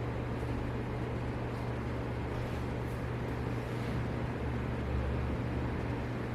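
A steady low mechanical hum over a constant noisy rush, unchanging throughout.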